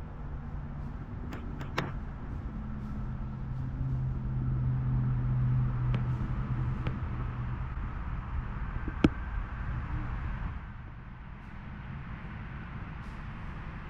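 A car driving past: a low engine hum that swells to its loudest about five seconds in and fades away by about ten seconds. A few light clicks come about a second and a half in, and one sharp click about nine seconds in.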